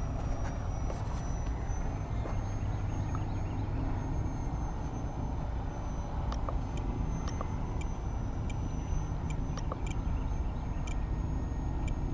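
Lil Ripper RC plane's motor and propeller whining high and thin while it flies, the pitch wavering slightly, over a steady low rumble. A few short ticks come in the second half.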